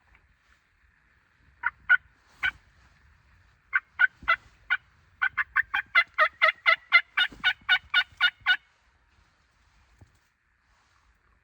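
Turkey yelps: a few spaced notes, then a fast, even run of about eighteen at roughly five a second that stops suddenly.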